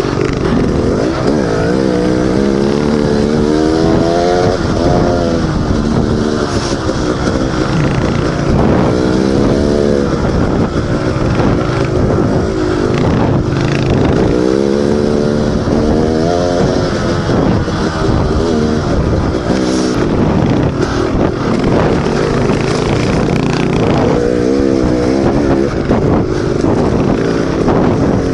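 Dirt bike engine running under load on a trail, its pitch repeatedly rising and dropping as the throttle is opened and closed, over a steady rushing noise.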